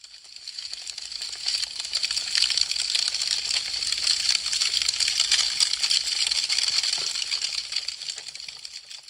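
Wood fire crackling, a dense run of sharp pops and snaps. It fades up over the first two seconds or so and fades away near the end.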